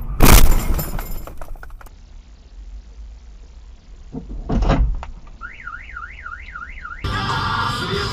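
A loud vehicle collision impact with a brief rattle of debris. A few seconds later comes a heavier thud, followed by a car alarm's siren sweeping rapidly up and down in pitch.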